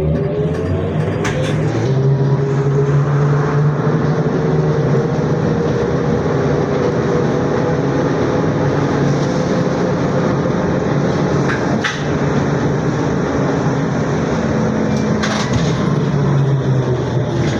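ZiU-682G trolleybus's electric traction motor whining under the rumble of the ride, heard from inside the cabin. The whine settles to a steady pitch after accelerating and starts to fall near the end as the trolleybus slows, with a few sharp knocks along the way.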